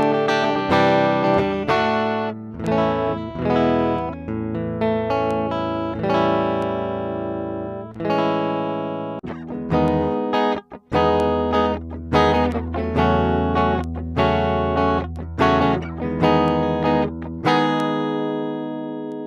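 Squier Bullet Mustang electric guitar played with a clean tone and no effects: picked and strummed chords, the last one left ringing near the end.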